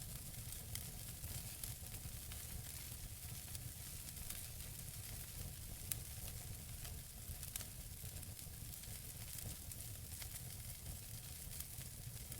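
Logs burning in a wood fireplace: a steady hiss and low rumble with frequent small crackles, and a sharper pop about six seconds in.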